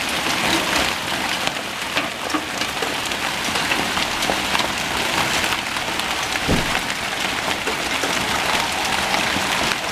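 Heavy hail mixed with rain pounding down, with large hailstones. It makes a dense, steady hiss broken by many sharp individual hits.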